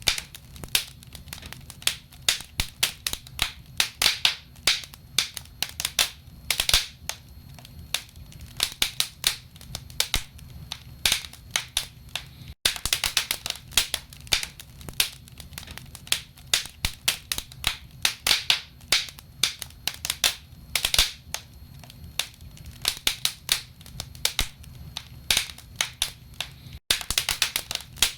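Wood fire crackling in a fireplace: burning logs give irregular sharp pops and snaps, several a second, over a steady low rumble.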